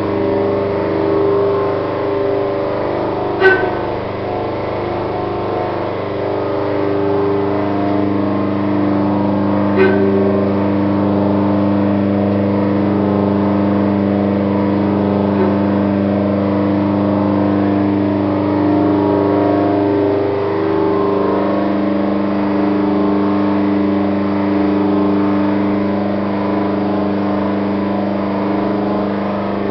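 A machine motor running with a steady, even hum. It is punctuated by a sharp click about three and a half seconds in and another about ten seconds in.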